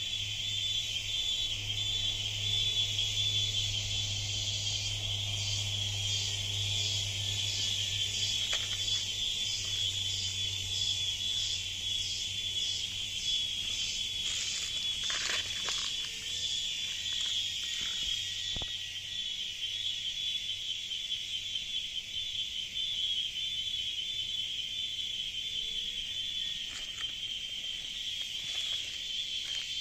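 Cicadas in a tropical rainforest, their shrill drone running steadily without a break. From about five seconds in to about fourteen, a second insect call pulses over it, roughly twice a second.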